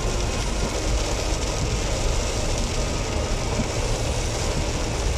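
Heavy rain pouring down steadily, a dense, even hiss with a strong low rumble underneath.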